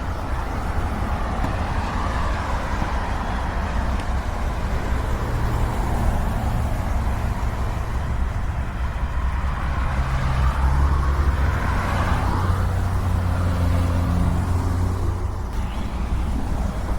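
Cars passing close by on the road, their engine and tyre noise swelling and fading, twice most clearly, over a steady low rumble of wind on the microphone.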